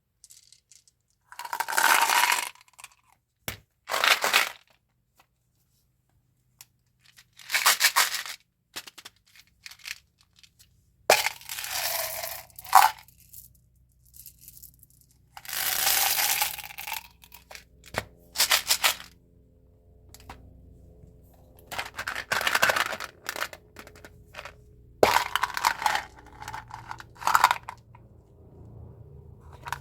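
Candy and gum packaging being handled: a series of short bursts of crinkling and tearing wrappers with a few sharp clicks, separated by brief pauses.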